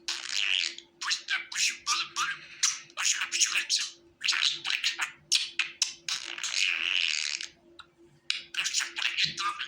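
Budgerigar warbling: fast, scratchy chatter and clicks in bursts of about a second with short pauses between them, over a faint steady hum.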